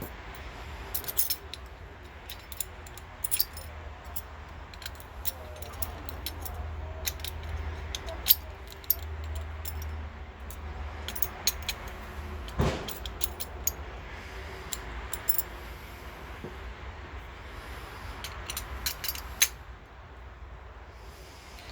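Metal parts of a lawn tractor's gearbox clinking and knocking as they are handled by hand, in scattered irregular clicks with a louder knock about halfway through.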